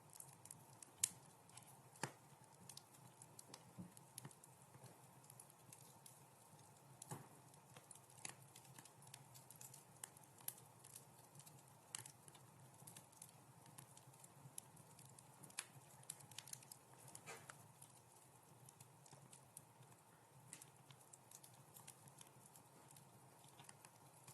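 Wood fire crackling in a fireplace: faint, irregular pops and snaps over a soft low rumble and hiss, with the sharpest pop about a second in.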